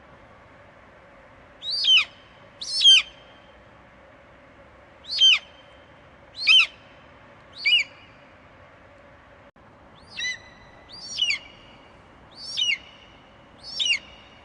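Eagle screeching: nine short, high calls, each sliding down in pitch, spaced irregularly about one to two seconds apart over a steady background hiss.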